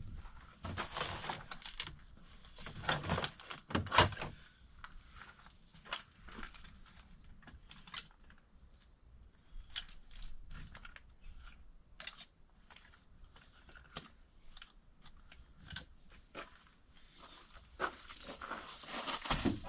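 Handling noises: irregular rustling and crinkling with scattered sharp clicks and knocks, louder about a second in, around three to four seconds in, and again near the end.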